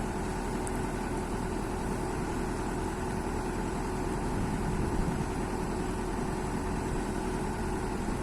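Kobelco excavator's diesel engine idling steadily.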